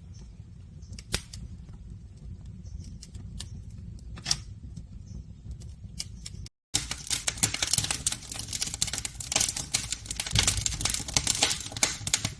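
Wood fire crackling: a few scattered sharp pops over a low rumble, then, after a brief break about six and a half seconds in, dense rapid crackling.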